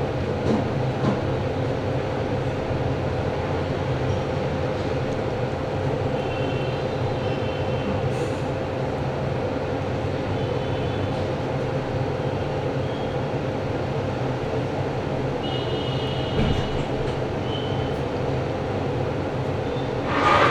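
Steady mechanical hum, fan-like, with a constant mid-pitched tone running under it. Faint short high-pitched tones come in twice, about a third of the way in and again near three quarters.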